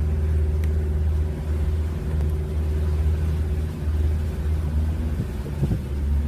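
Tour boat's motor running steadily at low speed, a constant low drone.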